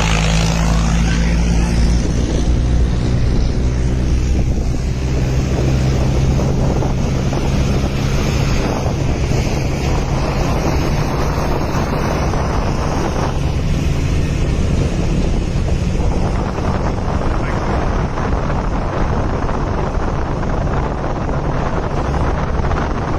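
Tractor engine running steadily, half buried under a loud rush of wind on the microphone.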